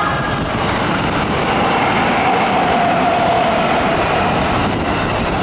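Train passing close by: a steady, loud rush of wheels and running noise, with a faint tone that slides slowly down in pitch through the middle.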